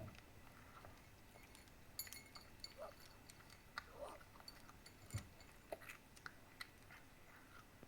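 A cat eating: faint scattered clicks, clinks and light chewing sounds, with a couple of brief soft squeaky glides about three and four seconds in.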